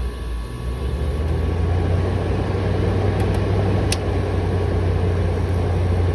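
Air conditioner running: a steady low hum with an even rush of fan air over it.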